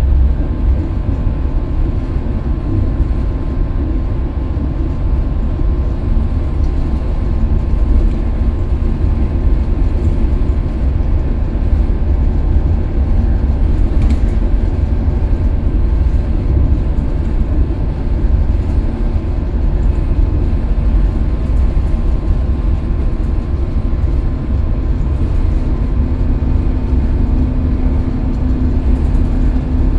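Scania K320UB city bus's diesel engine running, with a continuous low rumble of engine and road noise. A low engine hum grows stronger a few seconds before the end.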